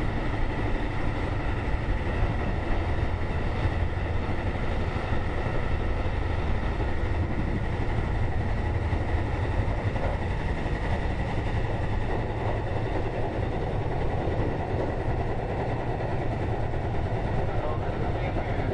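Onboard running sound of a Keikyu 2000 series four-car set with field-chopper control, travelling at speed: a steady rumble of wheels on rail and traction motors, with a faint steady high tone. The wheels have flat spots.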